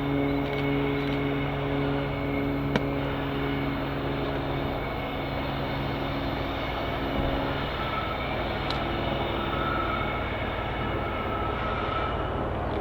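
Diesel locomotive engine running steadily as a train goes by, with a single sharp click about three seconds in.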